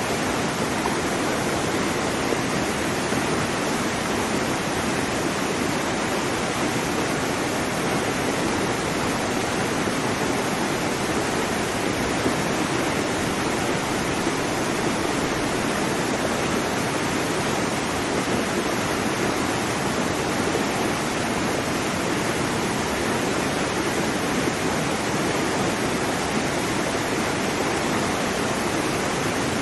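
Waterfall: a steady, unbroken rush of falling water, its weight in the lower middle of the range.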